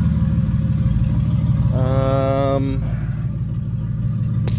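Freshly swapped Ford AU Falcon engine idling steadily on its first run, its exhaust dumping straight out of the catalytic converter with no exhaust system fitted. A single sharp click comes near the end.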